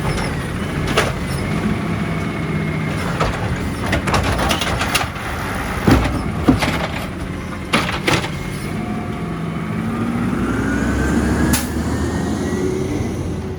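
Side-loader garbage truck's diesel engine running, with several sharp metallic clanks and knocks through the middle of the stretch. Over the last few seconds the engine rises steadily in pitch.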